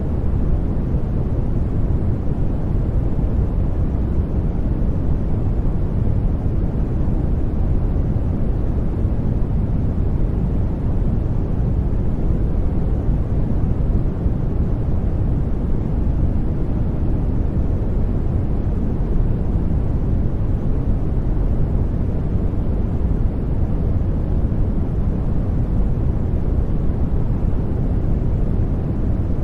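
Steady sleep white noise, an even rush weighted to the low end so it sounds deep rather than hissy, with no changes.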